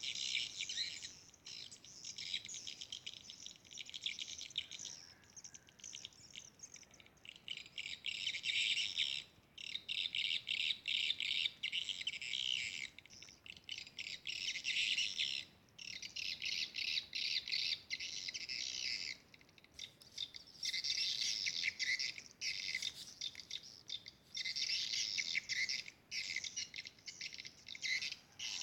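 Swiftlets twittering: dense, rapid high chirps in runs of several seconds with short breaks between them.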